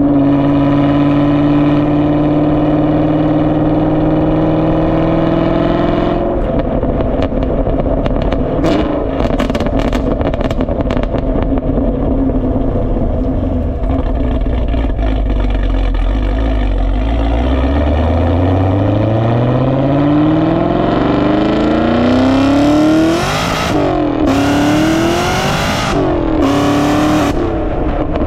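Supercharged sixth-generation Chevrolet Camaro running through its exhaust. A steady note for the first few seconds changes abruptly. The pitch then climbs slowly over several seconds as revs rise, and several loud hissing rushes come near the end.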